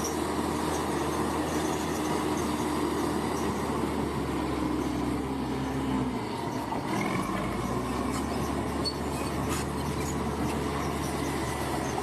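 Tracked bulldozer working: its diesel engine runs steadily under the squeal and clank of its steel tracks, the engine note shifting briefly a little past halfway.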